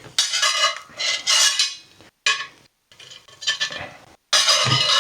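Spatula scraping and sliding under an omelette in a Lodge cast iron skillet, in about five separate rasping strokes.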